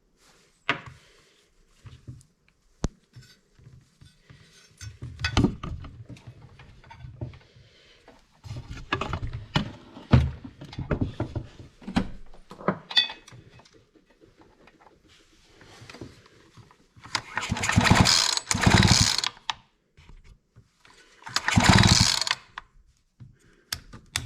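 A Husqvarna 345 chainsaw's recoil starter pulled three times, each pull a loud one-second whir of the rope and the engine turning over without catching. Before the pulls come scattered knocks and clatter of the saw being handled.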